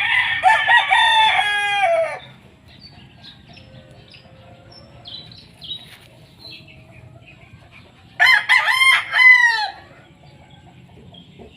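Gamecock roosters crowing: one crow lasting about two seconds at the start and another about eight seconds in, with faint clucking between.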